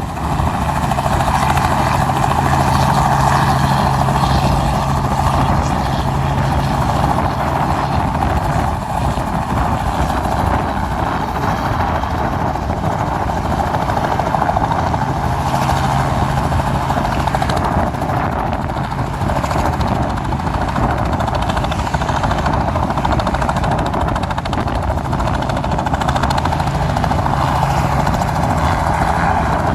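Helicopter just after liftoff, its rotor and engine running loud and steady, with a low hum that fades in and out.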